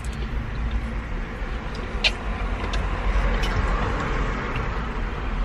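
Low steady rumble of a car's engine running, heard inside the cabin, with a few sharp clicks over it, the loudest about two seconds in.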